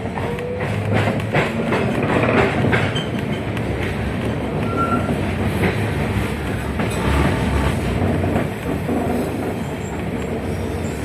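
71-619KT tram running, heard from inside the car: steady rumble of wheels on rail with repeated knocks over joints. A faint rising whine in the first couple of seconds comes from the traction drive as the tram picks up speed.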